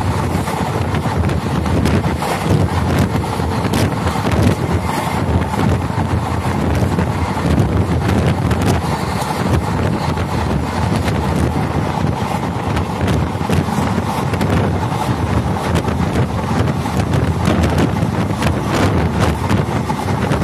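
Indian Railways express passenger coach running at speed: the steady rumble of wheels on the track with many short irregular clicks, under loud wind buffeting the microphone held out of the open door.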